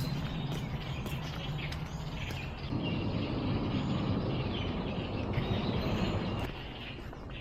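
Small birds chirping with short calls over a steady rushing background noise. The noise swells for a few seconds in the middle, then eases off.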